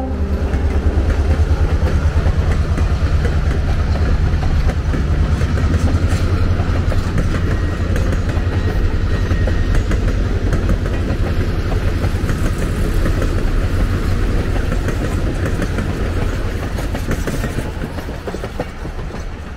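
An EMD GP38-2 diesel locomotive with a V16 two-stroke engine rumbles past close by. Its passenger cars then roll by, steel wheels running on the rails. The sound fades away over the last few seconds as the train recedes.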